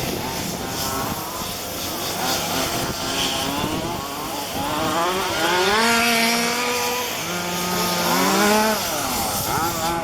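Small two-stroke petrol engines of 1:5-scale RC cars racing, their pitch rising and falling as they rev up and back off, with more than one engine heard at once.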